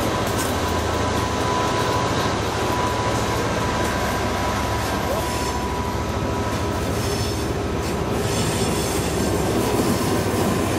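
Passenger coaches of an arriving locomotive-hauled train rolling past, a steady rumble of wheels on rail with a thin continuous squeal from the wheels.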